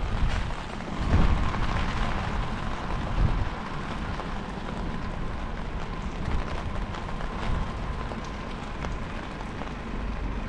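Wind gusting against the microphone in heavy low rumbles, strongest near the start and about a second and three seconds in, over steady rain pattering. A faint steady tone sits in the background.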